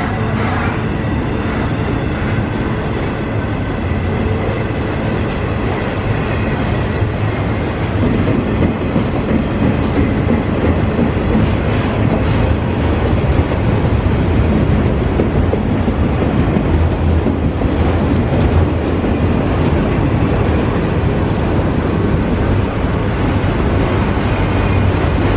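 A train rolling past at close range, its wheels clicking over the rail joints, with a cluster of sharper clicks about halfway through. Wind buffets the microphone.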